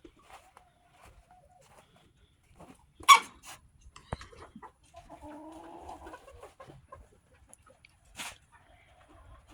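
Backyard chickens clucking, with a sudden loud, sharp sound about three seconds in and a drawn-out pitched call lasting about two seconds in the middle.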